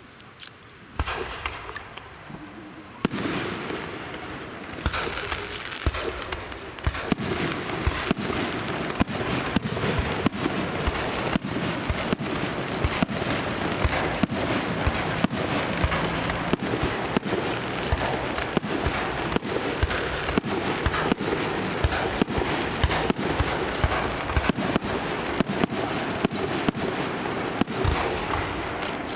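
Aerial fireworks bursting, with a few separate bangs at first, then from about seven seconds in a dense, rapid barrage of bangs over continuous crackling.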